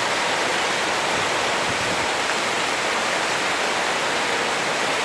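Heavy rain pouring down in a steady, even rush, with no breaks or single impacts.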